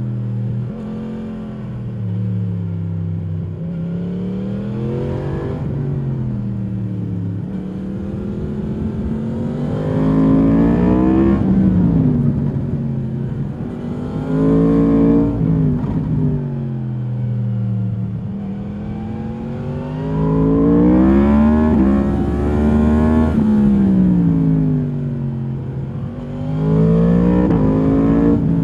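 2022 Yamaha MT-10's crossplane inline-four engine through its stock exhaust, revving up and dropping back again and again as the bike accelerates and slows. It is loudest around ten, twenty-two and twenty-seven seconds in.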